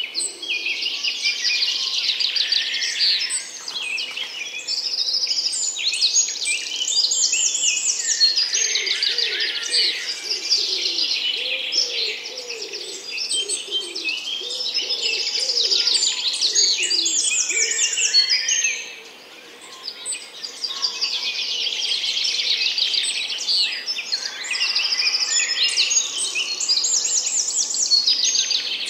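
A dense chorus of small songbirds chirping and singing, with rapid high-pitched trills overlapping one another. It falls away briefly about two-thirds of the way through, then resumes.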